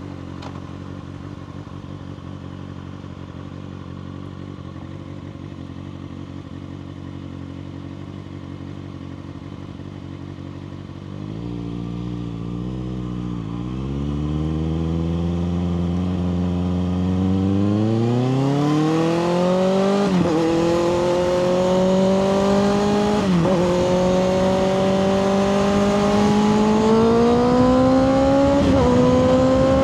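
2024 Kawasaki ZX6R inline-four through a Two Brothers slip-on exhaust, idling steadily for about ten seconds. It then pulls away, the revs climbing through the gears with three quick upshifts, each a sudden drop in pitch before it rises again.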